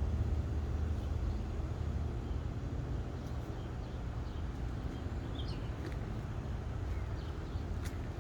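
Steady low engine-like rumble, with a few faint short high peeps a little past the middle.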